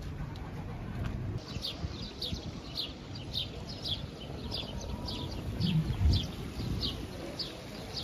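Small birds chirping over and over: short, high, falling notes, two or three a second, starting about a second and a half in. Under them runs a low rumble, with a dull thud about six seconds in.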